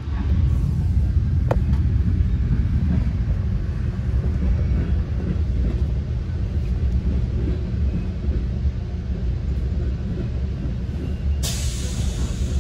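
Steady low rumble of a moving Metra commuter train heard from inside the passenger car, with a single sharp click about a second and a half in and a loud hiss starting near the end.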